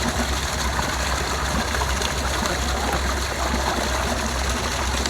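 Water from a hose nozzle pouring into a livestock water tank, a steady running rush.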